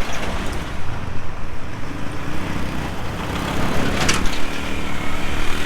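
A CNG auto-rickshaw's small engine running on the move, a steady low rumble with road noise, with a short hiss about four seconds in.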